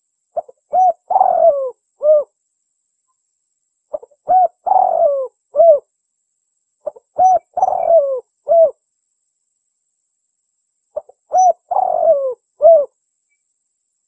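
Spotted dove cooing its song four times, a few seconds apart. Each phrase is a short coo or two, a longer falling coo and a final coo. This is the song of a contest-winning bird, played as a lure to draw wild spotted doves.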